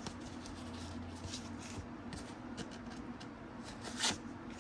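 Trading cards being slid off a stack by hand: faint rustling and light flicks of card stock, with a slightly louder slide about four seconds in.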